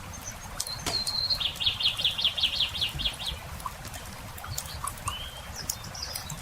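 A songbird sings one phrase: a short held high note, then a fast trill of about a dozen notes, with a brief call again near the end. Sharp crackles from a campfire pop throughout, over a steady low background noise.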